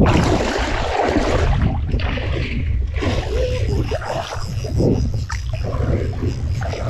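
Boat's outboard motor running steadily under way, with wind buffeting the microphone.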